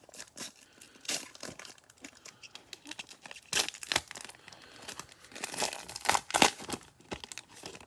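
Cellophane wrapper of a Mosaic football card cello pack crinkling and tearing as the pack is opened by hand, in irregular crackles with louder rustles about halfway through and again near the end.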